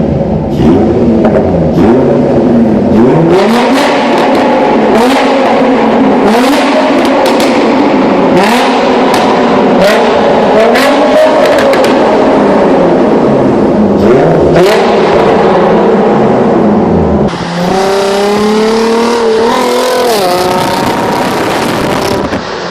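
Infiniti G35's 3.5-litre V6 through a Motordyne Shockwave exhaust and Art Pipes, revving hard, its pitch climbing and dropping over and over. The sound changes abruptly about three-quarters of the way through.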